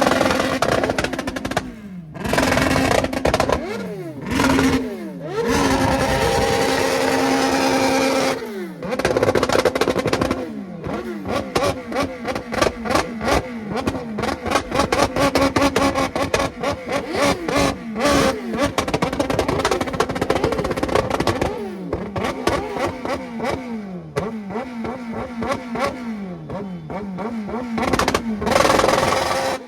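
Motorcycle engines revved hard again and again: the pitch climbs, is held high for a few seconds around six to eight seconds in, and falls away as the throttle closes. In the middle stretch the engine runs in a rapid, uneven, pulsing beat between blips, and it is revved sharply once more near the end.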